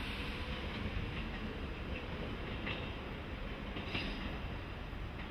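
Local electric train pulling away, with a steady running rumble and a few clicks of its wheels over rail joints.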